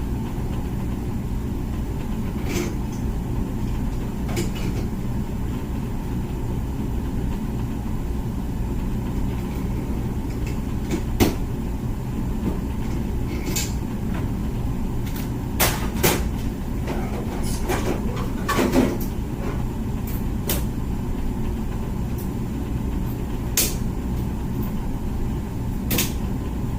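Comfee dishwasher running mid-cycle: a steady low hum and rumble of the pump and water spray, with a few sharp clicks and knocks here and there.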